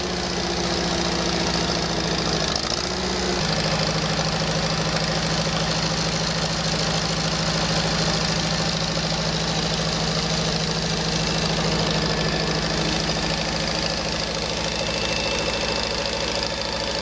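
Farmall 230 tractor's four-cylinder engine running steadily at idle. Its pitch shifts slightly about three seconds in, then holds steady.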